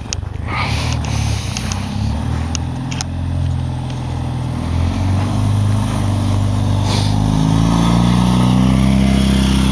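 Fiat 126p's air-cooled two-cylinder engine with a sport exhaust, revving as the small car comes up and passes close by. Its note rises and grows louder toward the end.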